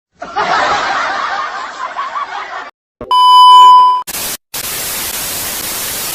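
Intro sound effects: a busy, noisy jumble of sound for about two and a half seconds, then a loud steady electronic beep lasting about a second, then a flat white-noise hiss, broken once by a short gap, that cuts off at the end.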